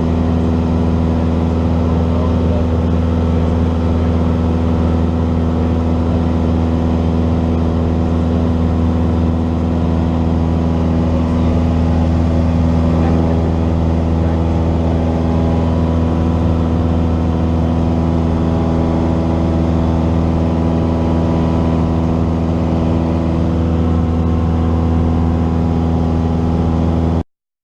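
Cessna 172's piston engine and propeller droning steadily at a constant power setting, then the sound cuts off abruptly near the end.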